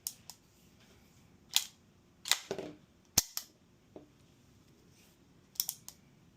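Sharp metallic clicks and clacks of a CZ Shadow 2 pistol being handled for disassembly: about eight separate snaps, including a short rattling clack about two and a half seconds in, a single sharp click about three seconds in, and a quick pair near the end.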